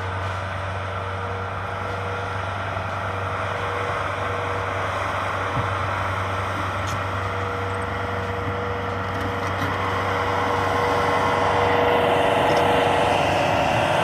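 A motor running steadily, with a constant low hum and a held tone, growing slightly louder over the last few seconds.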